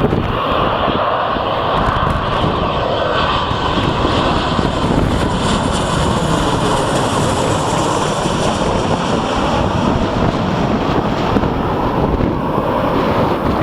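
Boeing 737-800's CFM56 jet engines on final approach passing directly overhead: a loud, steady jet roar whose higher-pitched hiss swells through the middle and thins out near the end.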